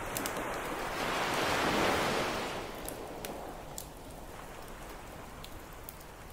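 An ocean wave breaking and washing up the beach, swelling to a peak about two seconds in and then fading, over the steady popping and crackling of a wood campfire.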